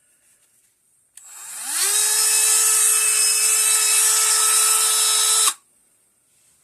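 Dremel rotary tool switched on, spinning up to speed within about half a second and running with a steady high whine for about four seconds before it is switched off abruptly.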